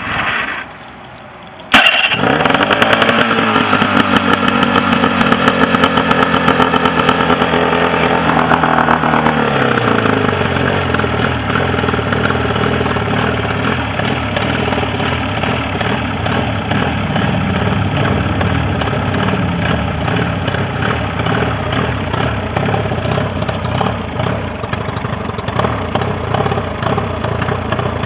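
Mercury 40 two-cylinder outboard motor starting about two seconds in, running at a fast idle, then settling to a lower steady idle about ten seconds in. It is now firing on both cylinders and holding an idle.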